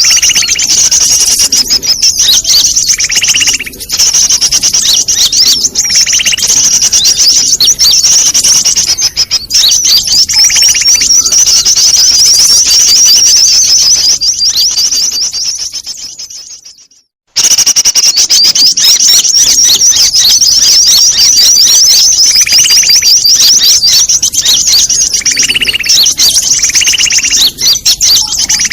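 Bird-luring call recording (suara pikat ribut): a dense, continuous chorus of high, rapid chirping and twittering from many small birds, with recurring lower whistled notes. A little past the middle it fades out to a moment of silence and then starts up again at full level.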